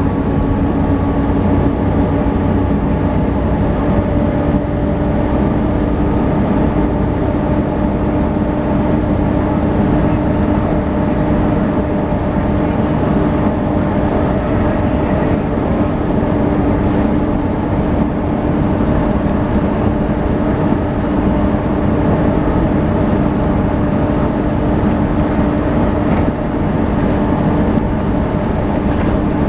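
Volvo B7TL double-decker bus running under way at a steady pace. The engine drone carries a steady whine, the vacuum-cleaner-like 'hoovering' sound typical of this model, and it holds its pitch.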